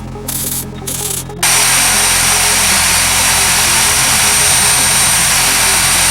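A few short noisy bursts over a steady electrical hum, then about one and a half seconds in an angle grinder starts and runs loud and steady with a thin high whine, grinding metal.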